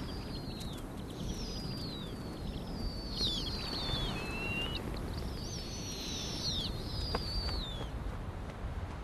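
Birds calling in a run of thin, high-pitched falling whistles, several overlapping in the middle, over a steady low wind rumble.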